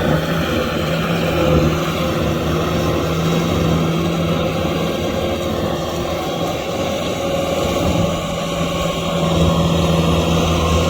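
Kubota M6040SU tractor's diesel engine running steadily under load while driving a rotavator through mud. The engine note eases a little past the middle and then comes back.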